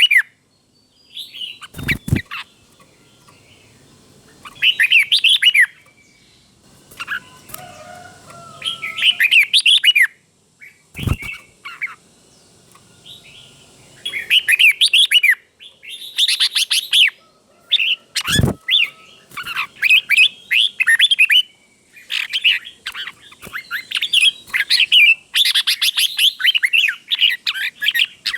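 Red-whiskered bulbul singing short phrases of quick warbling whistles, the phrases spaced out at first and coming almost without pause in the second half. Three sharp knocks fall between the phrases.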